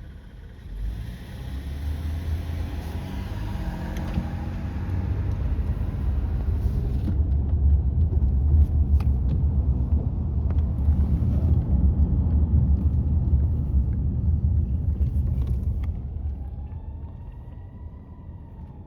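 Fire truck's diesel engine rumbling heavily as the truck pulls out and goes by, building to a peak and then fading away. Near the end a faint siren wail rises and falls.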